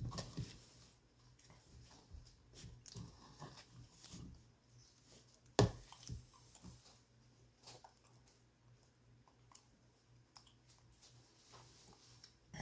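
Close-mic'd chewing and mouth sounds of a person eating ice cream with cookie pieces from a bowl, with scattered small clicks and one sharp click about halfway through.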